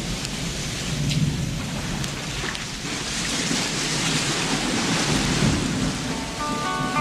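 Recorded sound of ocean waves rushing in a steady wash, fading up from silence at the start. Near the end the band comes in with held chords over it.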